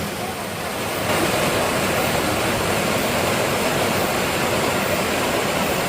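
Waterfall pouring: a steady rush of falling water, a little quieter for the first second.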